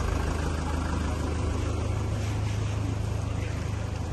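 Street traffic: a nearby vehicle's engine running steadily with a low hum over a general street din.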